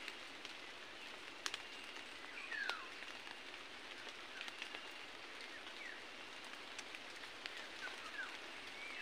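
Forest ambience: small birds giving short, falling whistled chirps every second or two, with scattered sharp clicks and crackles over a steady hiss.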